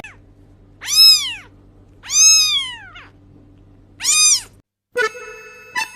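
A cat meowing three times, each meow rising and then falling in pitch. Near the end a music track of plinking keyboard notes begins.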